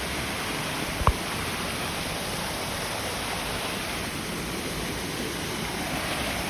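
Steady rushing of a waterfall, with one brief low thump about a second in.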